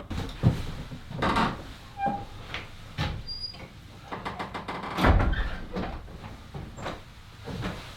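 Footsteps of a person walking outdoors, a step about every second, with a louder low rumble about five seconds in.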